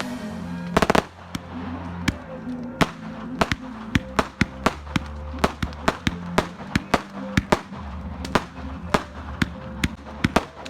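Fireworks going off: a run of sharp, irregular cracks and pops, about three a second, over a low steady hum.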